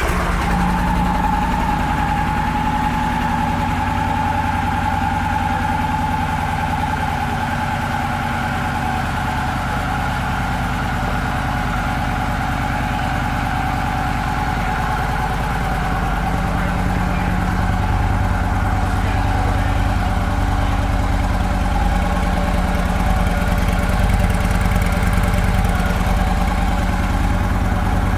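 2012 Victory Cross Country's V-twin engine idling steadily, freshly started.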